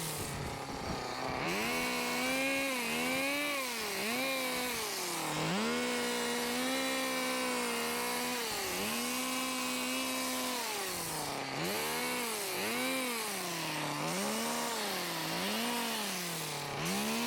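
Hedge trimmer motor revving up and down while shrubs are trimmed, its pitch rising, holding high for a second or two, then dropping. Near the end it revs in quick cycles, about one a second.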